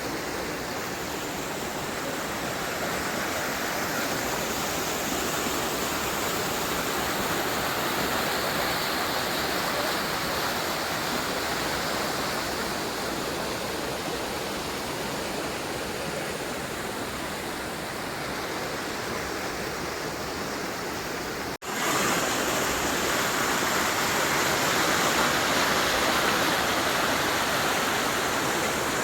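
Waterfall water rushing in a steady, dense roar of noise, with a brief cutout about two-thirds of the way through, after which it is a little louder.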